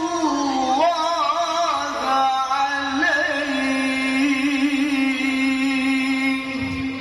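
Male Quran reciter (qari) chanting in a high voice. An ornamented, wavering melodic phrase gives way about three seconds in to one long held note that ends just before the close.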